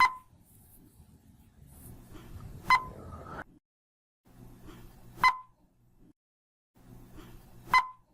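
Four short electronic beeps, evenly spaced about two and a half seconds apart, each a single clear tone with a fainter higher tone over it and a brief ring: the countdown sound effect of a PowerPoint slide animation.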